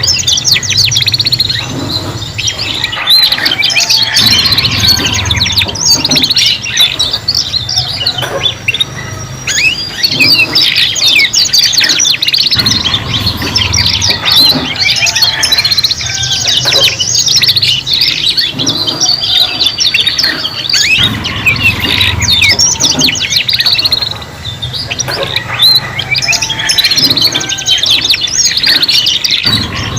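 Several young domestic canaries singing together, practising their song: a dense, unbroken stream of rapid trills and chirps that overlap each other.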